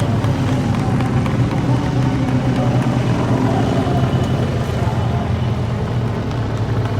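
Moto3 racing motorcycles' 250 cc single-cylinder four-stroke engines running at speed, a loud, steady engine noise.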